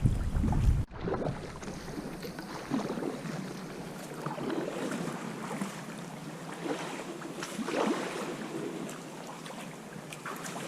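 Water splashing and lapping around a sea kayak, in irregular soft splashes every second or two, with wind buffeting the microphone for the first second before it drops away suddenly.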